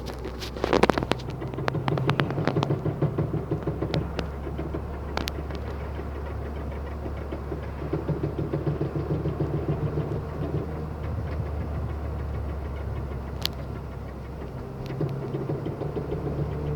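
Ford Fiesta Mk6 running with a rapid rhythmic knocking that comes and goes in bouts, with a few sharp clicks near the start. It is the strange noise from the wheel area, which turned out to be a worn-out driveshaft.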